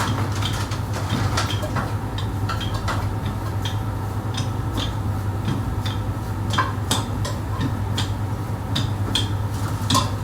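Restaurant kitchen at work: a steady low hum under scattered clinks and knocks of pots, pans and utensils.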